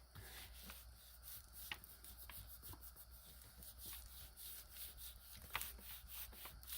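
Faint rubbing and small irregular taps and clicks of hands working a rubber stamp onto a paper page, over a low steady hum of room tone.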